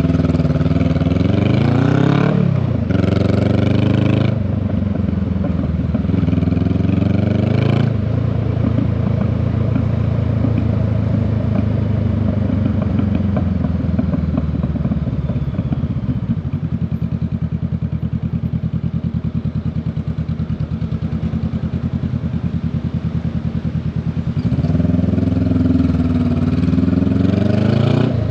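Honda Rebel 500 parallel-twin engine and exhaust on the move: it revs up twice in the first few seconds with a gear change between, settles into steady running, drops to a lower steady beat, then revs up again near the end.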